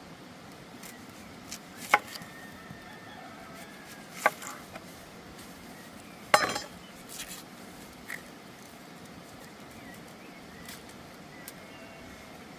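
Three sharp knocks about two seconds apart, the last one the loudest and longest, followed by a few fainter clicks over a quiet steady background.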